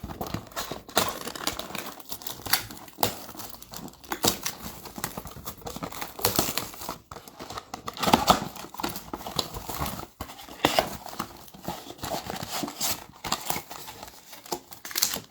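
A Panini Select basketball blaster box being torn open by hand: its wrapping and cardboard tearing and rustling, and foil card packs crinkling as they are handled, in irregular sharp crackles.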